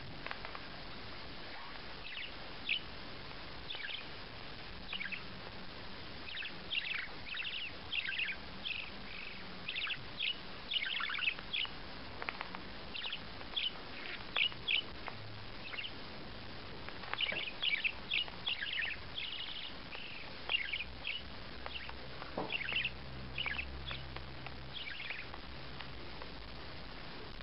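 Pet parrot chirping: many short, high calls, most dropping in pitch, coming in loose runs with brief gaps, over a steady background hiss.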